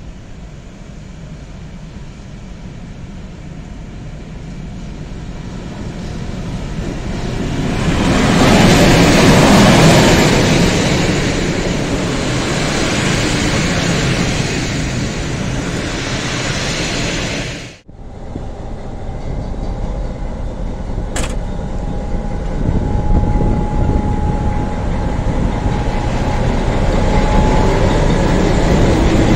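A passenger train rolling into the platform, the rumble of its coaches' wheels on the rails swelling to a peak about nine seconds in and then easing. After a sudden cut, a Czech ČD class 754 diesel locomotive runs at close range, with a thin steady whine for several seconds and one sharp click.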